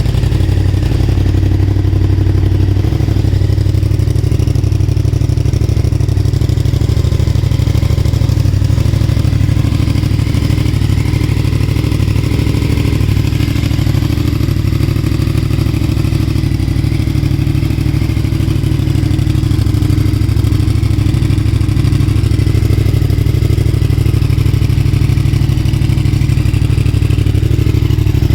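2020 Yamaha MT-07's parallel-twin engine idling steadily and loudly through a cheap aftermarket full-system exhaust.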